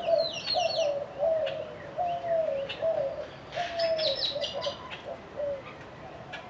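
A dove cooing in a run of short, falling notes, about two a second, dying away after about five seconds. A small bird chirps over it at the start and again about four seconds in.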